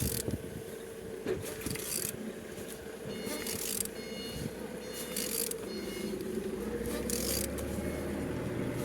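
A20DTH 2.0 diesel engine, out of the car, being turned over by hand, with short scraping, hissing sounds every second or two as it rotates; it turns freely. A steady hum and faint high beeping sit in the background.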